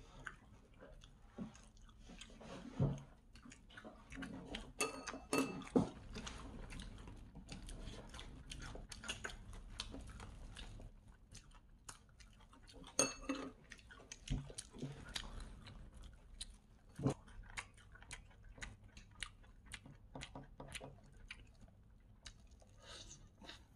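Biting and chewing crispy Korean fried chicken: irregular crunches throughout, with a few louder crisp bites.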